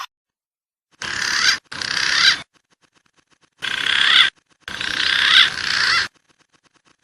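Recorded pigeon calls from a bird-lure track: four bursts of busy, high-pitched calling, each growing louder and then cutting off abruptly into dead silence, as in an edited loop.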